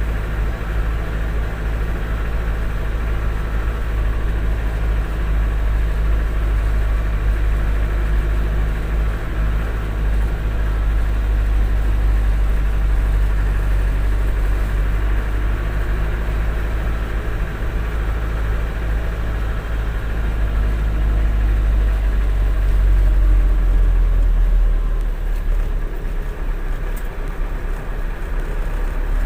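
Container truck's diesel engine running with a steady low rumble, swelling a little and then easing off near the end.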